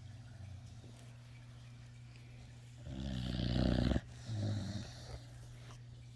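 Sleeping puppy snoring: one long rasping snore about three seconds in that stops abruptly, followed by a shorter, softer snore.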